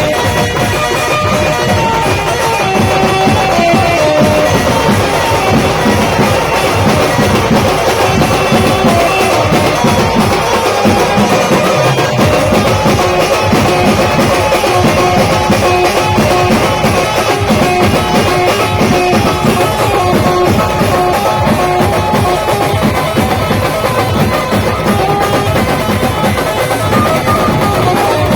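A Maharashtrian band playing: a melodic lead over a busy, steady drum beat.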